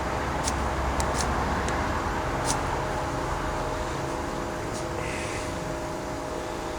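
Ferro rod struck with a steel striker, about five short, sharp scrapes in the first three seconds and a softer one about five seconds in, throwing sparks onto oil-soaked dryer lint. A steady low hum runs underneath.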